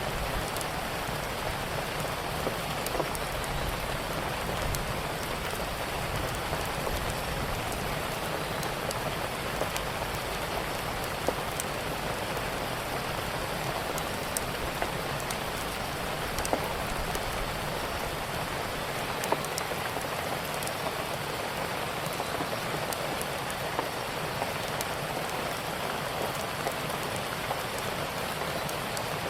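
Steady rain falling, with scattered sharp pops and crackles from a wood fire every second or two.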